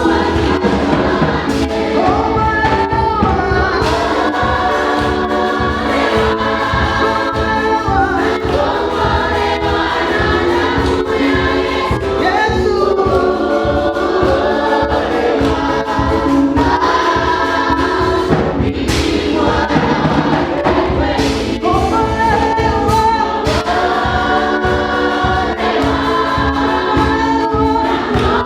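Gospel choir singing in Swahili over a band with a steady beat.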